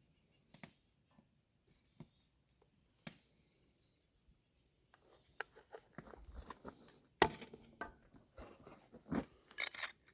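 Faint clicks and taps of a percolator's parts being handled as ground coffee is put in, growing busier about halfway through, with a louder knock about seven seconds in and a clatter of small knocks near the end.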